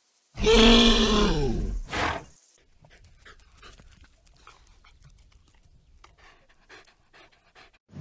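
An animal call: one loud pitched call of about a second and a half, falling in pitch, then a short second call, followed by faint, quick, scattered sounds.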